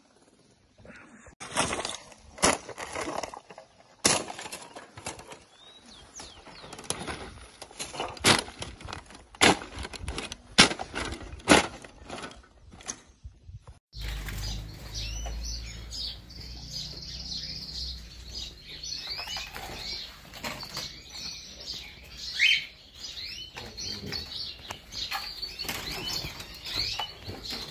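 Wild songbirds held in cages, fluttering and knocking against the cage with irregular sharp knocks and flapping; after an abrupt cut about halfway, many small birds chirping over a low steady rumble.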